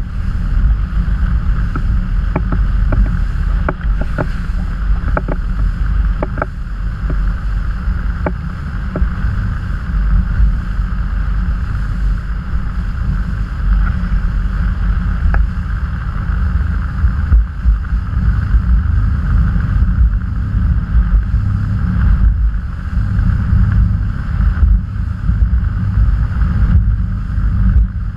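Motorboat under way: a steady engine drone mixed with heavy wind rumble on the microphone. A scatter of light clicks or knocks comes in the first several seconds.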